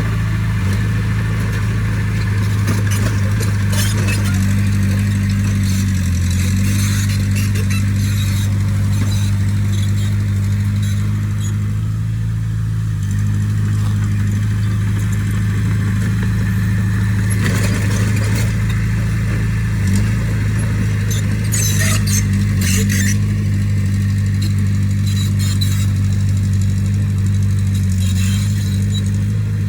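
Komatsu D20P bulldozer's diesel engine running steadily under work, its pitch shifting a little now and then. A few short metallic clanks and rattles sound over it, twice close together about two-thirds of the way through.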